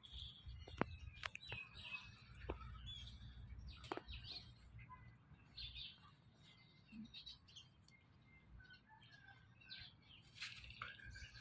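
Faint chirping of small birds, with several sharp clicks in the first four seconds.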